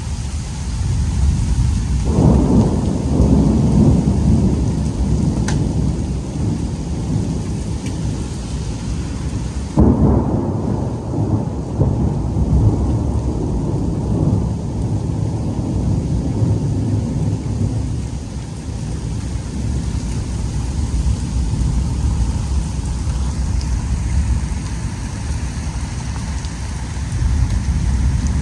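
Thunder rumbling over steady rain in a severe thunderstorm. One long roll builds about two seconds in, then a sharper clap about ten seconds in rolls on for many seconds.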